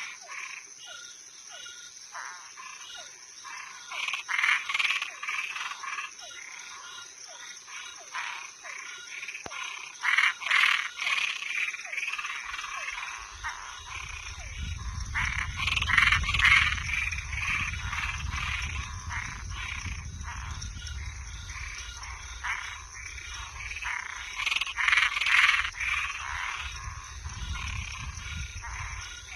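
Night chorus of frogs and treefrogs calling at a pond: many short, rapidly repeated croaks and notes that swell into louder bursts every few seconds, over a steady high-pitched tone. A low rumble joins about twelve seconds in.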